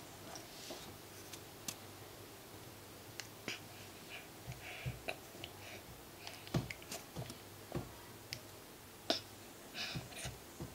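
Scattered light clicks and a few soft knocks, irregular and spread through the whole stretch, as a baby moves about with a plastic push-walker toy.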